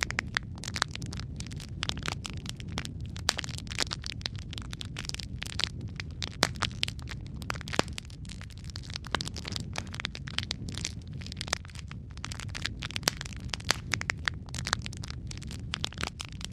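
Wood fire burning in a fireplace: a steady low rumble of flames with frequent irregular crackles and sharp pops from the burning wood.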